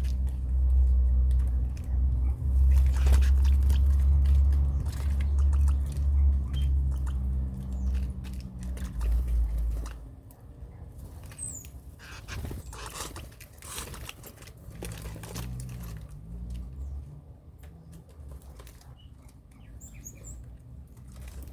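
Small birds giving a few brief, high chirps among clicks and rustling. A loud low rumble fills the first half and then stops about halfway through.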